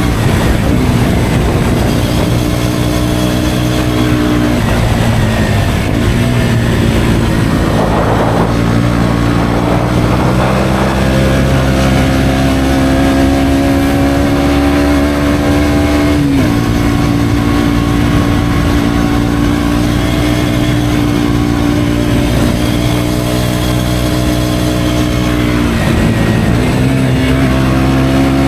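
KTM Duke 125's single-cylinder engine through an Akrapovic exhaust, pulling steadily under way with its pitch climbing slowly. The pitch dips sharply at gear changes several times, including about halfway through and near the end.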